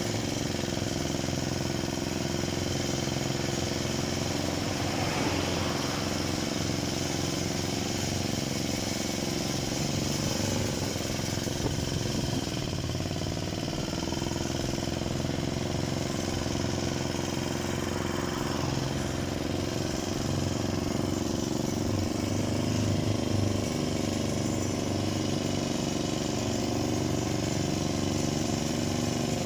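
Parma BP-058 petrol chainsaw engine running steadily throughout, its pitch sagging briefly about halfway through before picking up again.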